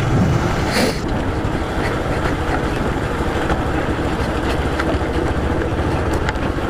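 Motorcycle engine running steadily while being ridden, with a dense low rumble.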